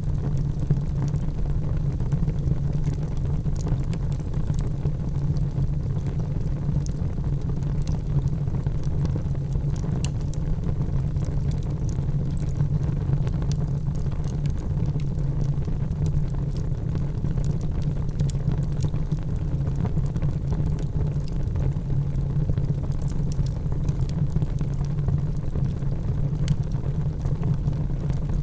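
Fireplace fire burning, with a steady low rumble of the flames and scattered small crackles and pops from the burning wood.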